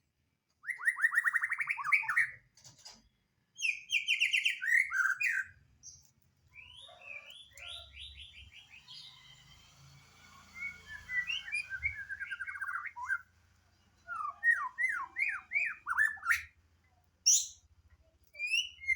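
White-rumped shama (murai batu) singing: phrases of rapid trilled notes and quick sweeping whistles, broken by short pauses.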